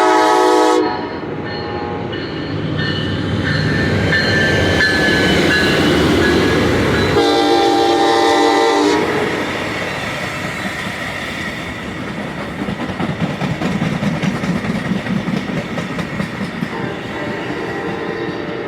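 Amtrak San Joaquin passenger train passing close by: its horn sounds a short loud chord at the start and a second, roughly two-second blast about seven seconds in, over the steady rumble of the train. In the later part the wheels clatter rhythmically over the rail joints as the cars roll by.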